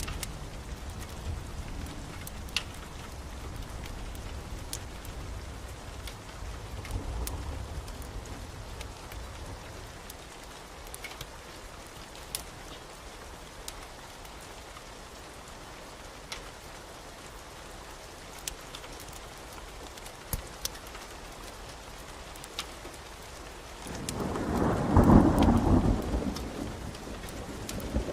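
Steady rain with thunder: a low rumble through the first ten seconds, then a louder thunder roll building about 24 seconds in and fading a few seconds later. Scattered sharp crackles from a fireplace fire sound throughout.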